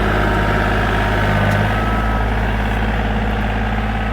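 A heavy engine idling steadily and loud, with a deep, even hum. It cuts in and cuts off suddenly.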